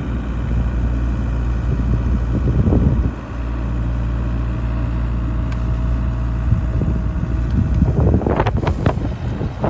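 Excavator engine running steadily under load, with a faint steady whine for a few seconds in the middle. Near the end comes a louder cluster of rattling, crackling noise as the machine works.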